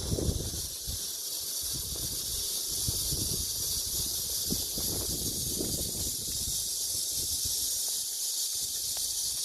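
Steady high-pitched hiss of an insect chorus, crickets or similar, with uneven low wind rumble on the microphone, strongest in the first second.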